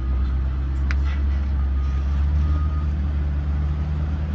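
Old GMC logging truck's engine running with a steady, heavy low drone. Short high-pitched tones come and go over it, and there is a sharp click about a second in.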